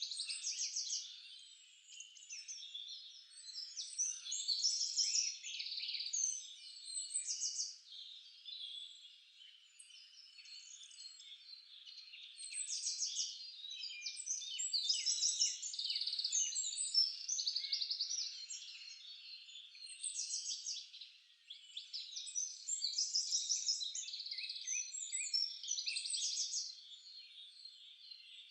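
Several songbirds singing at once in a forest chorus: overlapping high-pitched phrases of rapid repeated notes and chirps, swelling and fading as different birds take turns.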